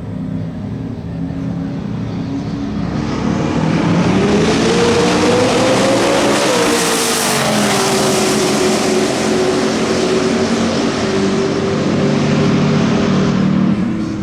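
Race car engine at full throttle in a roll race. Its pitch climbs steadily, drops sharply at the loudest moment about seven seconds in as the car goes by, then holds loud and steady until it fades near the end.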